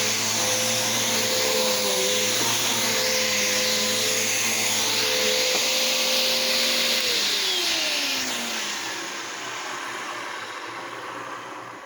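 Bissell PowerForce 71Y7-V upright vacuum cleaner running with a steady whine. About seven seconds in it is switched off, and the motor's pitch falls as it spins down and fades.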